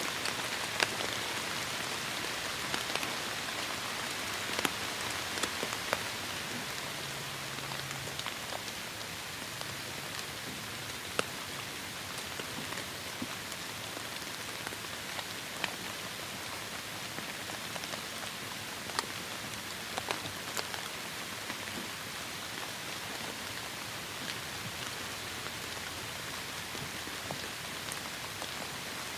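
Heavy rain falling steadily, an even hiss dotted with sharp individual drop hits.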